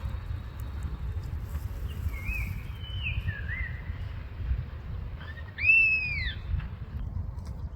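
Birds calling in a garden: a few faint short chirps, then one loud, clear whistled call that rises and falls in an arch, about two-thirds of the way in. A steady low rumble of wind on the microphone lies beneath.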